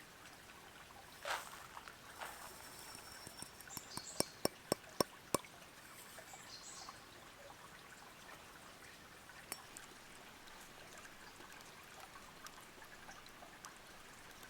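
Water trickling steadily and softly. A quick run of about six light sharp ticks comes about four to five seconds in.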